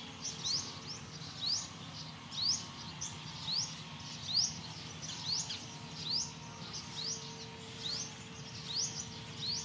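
A small bird calling over and over, each call a short, sharply rising chirp, about two a second, over a faint steady low hum.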